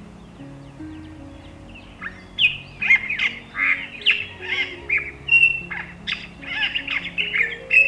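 Birds chirping and calling in quick, overlapping notes, starting about two seconds in, over soft background music of slow held notes.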